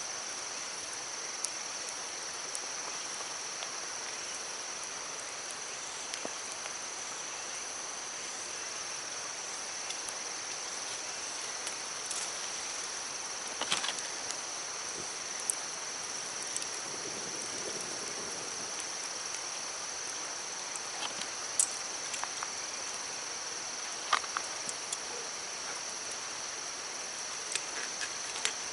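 A steady high-pitched insect chorus over the constant wash of a mountain stream, with occasional short sharp clicks or pops scattered throughout.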